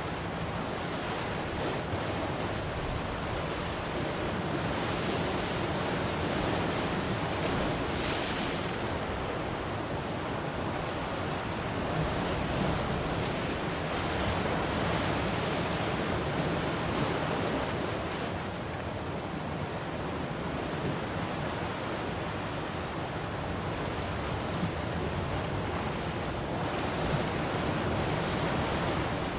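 Ocean waves breaking and washing on the shore, a continuous hiss of surf that swells and eases every few seconds, with some wind on the microphone.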